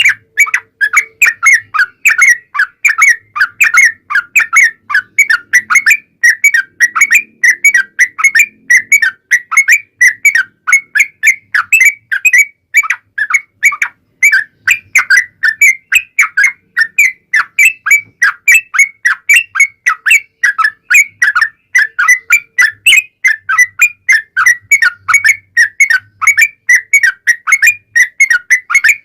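Yellow-vented bulbul singing a long, unbroken run of rapid, whistled chirping notes, several a second without a pause: the sustained "gacor" song used as a lure call to set other bulbuls singing.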